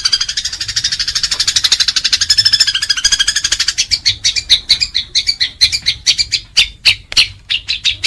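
Eurasian tree sparrows in a fighting chatter. The first few seconds are a fast, rattling run of chirps. About four seconds in it breaks into separate sharp chirps.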